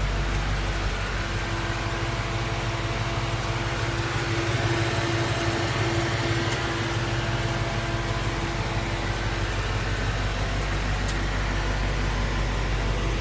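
2016 Ford Mustang's 5.0-litre Coyote V8 idling steadily. It runs smoothly with no tick, which the owner takes for a normal, healthy engine.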